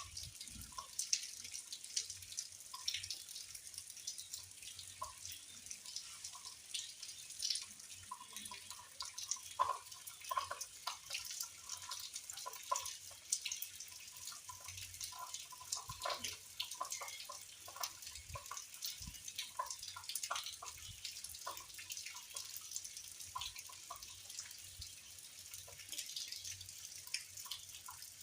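Spring rain dripping: many irregular drop ticks, some with a hollow plink, over a faint steady hiss of falling rain.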